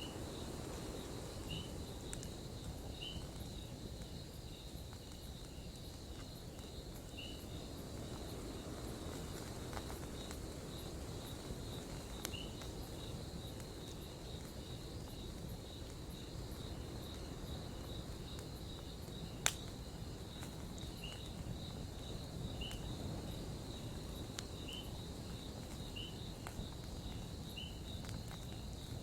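Campfire crackling, with scattered small pops and one sharp loud pop about two-thirds of the way through, over a steady low rumble. Crickets chirp throughout in a steady trill with short repeated chirps.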